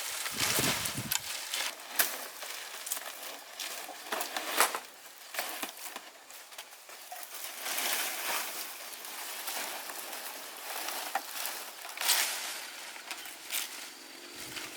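Irregular rustling and crackling with scattered sharp clicks and knocks, like dry material being handled or crushed.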